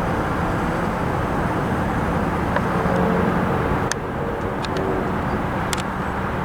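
Steady low rumble of a vehicle, with a few faint sharp clicks about four and six seconds in.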